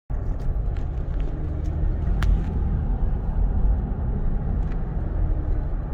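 Steady low rumble of a car being driven, heard from inside the cabin, with a few light clicks.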